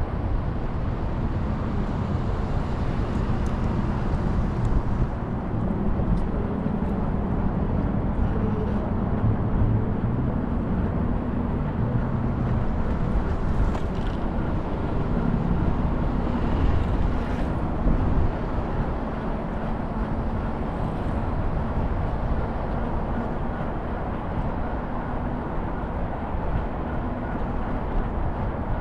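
Steady city traffic and road noise heard from a moving scooter, with a low rumble and the faint hum of passing vehicles.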